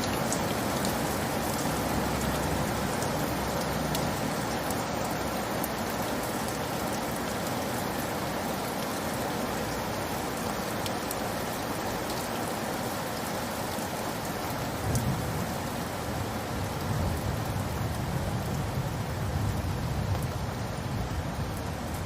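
Steady rainfall, an even hiss of rain with scattered individual drop ticks. A low rumble swells underneath in the second half.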